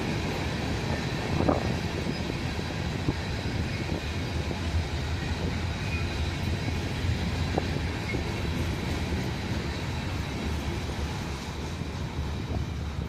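Norfolk Southern train's cars rolling past on the rails: a steady low rumble with a few faint clicks, easing off slightly near the end.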